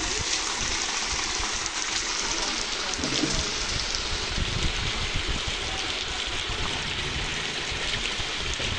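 Steady rain falling, with rainwater pouring off a roof edge and splashing onto the ground: an even, unbroken rush of water.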